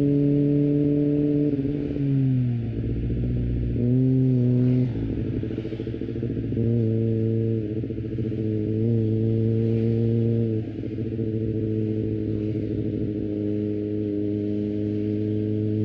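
Kawasaki ZX-25R's 250cc inline-four engine with an Akrapovic exhaust running under way. Its pitch falls about two seconds in, lifts briefly around four seconds, drops back, then holds fairly steady with small rises and dips.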